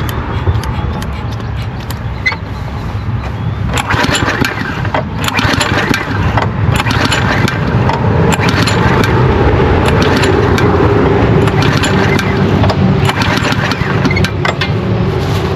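Small lawnmower engine trying to start and running roughly, with irregular knocks and pops over an uneven drone. It will not run properly because water has got into the carburetor.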